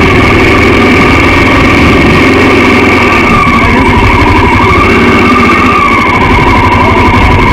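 Honda XR650L's air-cooled single-cylinder engine running steadily, its note dipping slightly in pitch and coming back up about halfway through, over a constant low rumble.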